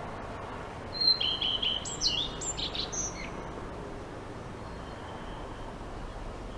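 Birds chirping: a short run of high chirps and whistled tweets from about one to three seconds in, over a steady faint background hiss.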